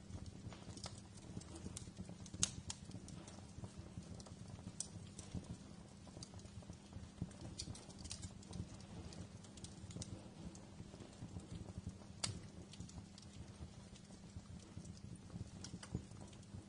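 Wood fire burning in a fireplace: a low steady rumble of flames with irregular sharp crackles and snaps, two of them louder, about two seconds in and about twelve seconds in.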